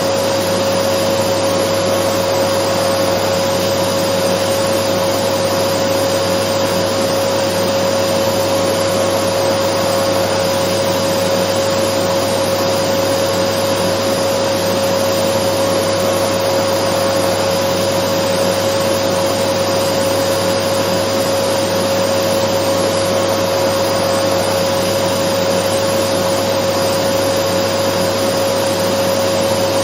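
Dyson vacuum cleaner running steadily: an even rushing noise with a constant whine through it, unchanging throughout.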